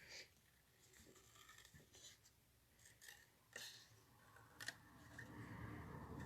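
Small detailing scissors faintly snipping paper, a few separate short snips, as the paper glued onto a wooden ornament is trimmed around its edge.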